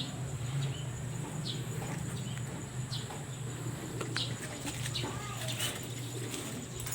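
Short bird chirps, one every second or so, over a steady low hum.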